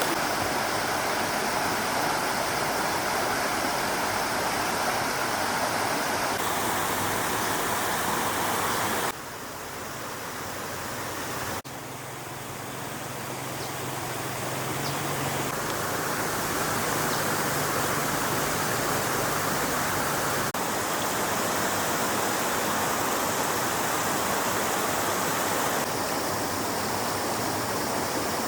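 Flowing stream water: a steady rushing hiss. Its level and tone change abruptly several times, with a quieter stretch about nine seconds in.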